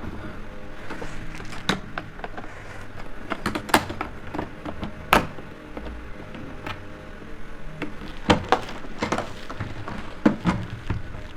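Plastic vacuum cleaner parts being handled and fitted together by hand: irregular clicks and knocks, the sharpest about four and five seconds in and again twice near the end.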